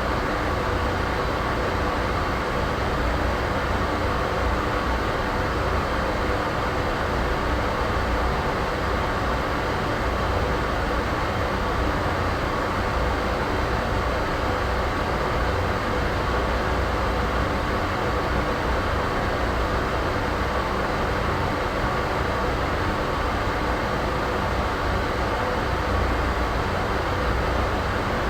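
Steady ambient noise for sleep or masking: an even rush with a deep rumble underneath and a faint steady hum, without change.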